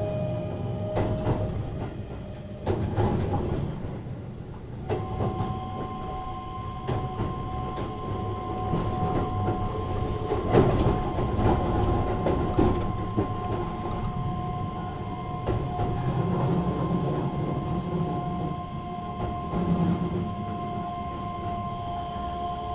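Running sound inside a Keihan 3000 series electric train car in motion: a low rumble of wheels on rail with scattered clicks and knocks, the loudest about ten seconds in. A motor whine falls and stops about a second in, and two steady whines hold from about five seconds in.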